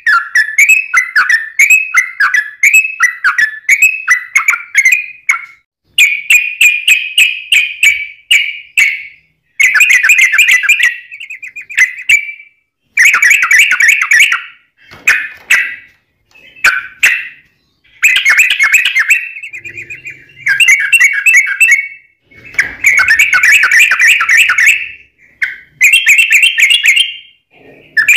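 Yellow-vented bulbul (trucuk) singing long, rapid, chattering runs of notes, phrase after phrase with only brief pauses between them.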